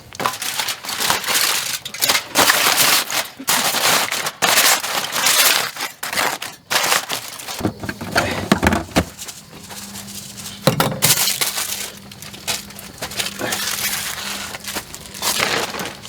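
Repeated crumpling and crushing, a crinkly rustle coming in irregular bursts, as of dry material being scrunched and handled.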